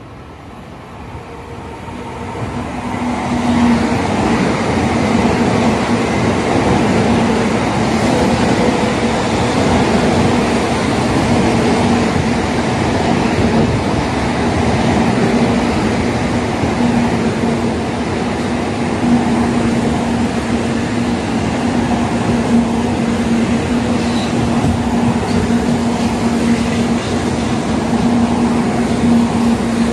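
N700A series Shinkansen train running in alongside the platform: a rumble of wheels and running gear that grows over the first few seconds as the train draws near, then holds steady with a constant hum as the cars go by.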